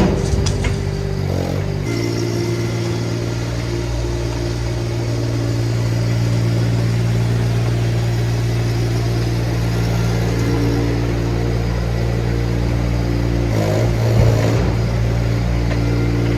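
An engine running at a steady speed, with a short louder moment about fourteen seconds in.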